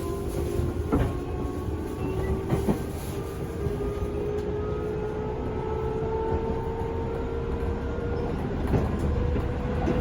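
Cabin running sound of a JR 205 series 500-subseries motor car: the traction motor's tone rises slowly as the train gathers speed, over a steady wheel-on-rail rumble. A few rail-joint clicks come about a second in, at about two and a half seconds, and near the end.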